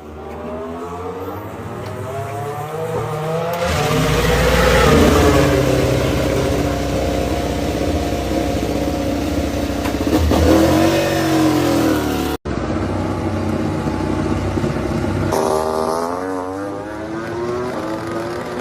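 MotoGP racing motorcycle engines at high revs: the engine note climbs as a bike accelerates, then swoops down as it passes. After a sudden cut, another bike's engine revs up.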